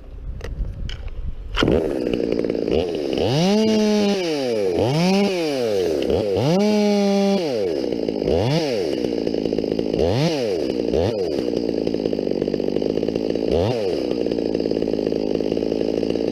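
Two-stroke chainsaw starting up about two seconds in, then being revved in throttle blips over its idle. Two longer revs rise to full speed and are held briefly, followed by four shorter blips.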